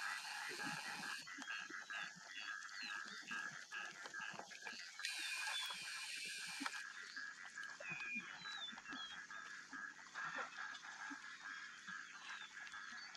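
Wild birds calling and chirping over a steady, pulsing chorus of repeated notes.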